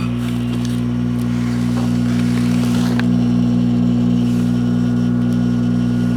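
Microwave oven running with its loud, steady electrical hum. A burst of hissing crackle from plasma arcing inside comes about two seconds in, with a sharp snap about three seconds in.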